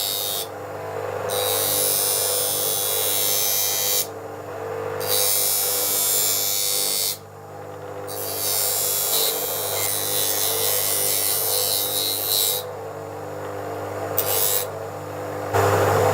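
A small electric power tool running steadily, with repeated spells of high, hissing grinding against metal broken by short pauses. Near the end the sound changes to a louder, lower running.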